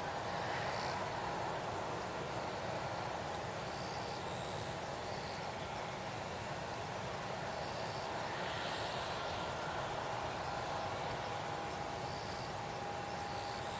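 Insects chirping in a steady, high-pitched, rapidly pulsing chorus, with a faint steady hum beneath and a few short chirps.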